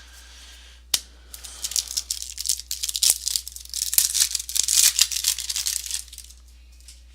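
A foil trading-card pack wrapper being torn open and crinkled by hand for about five seconds, after a single click about a second in.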